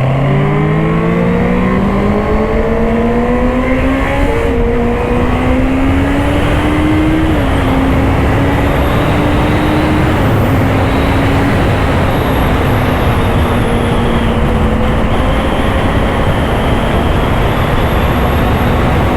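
Honda CBR650R's inline-four engine accelerating hard, its pitch climbing with two quick upshifts in the first eight seconds, then running at a near-steady speed under a rush of wind noise.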